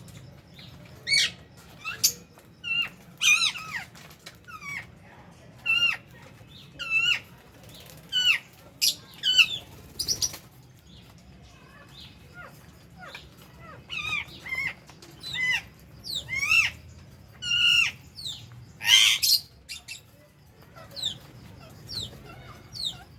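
Small pet parrots (lovebirds and budgerigars) chirping: a run of short, shrill calls, one or two a second, with a short lull about halfway through.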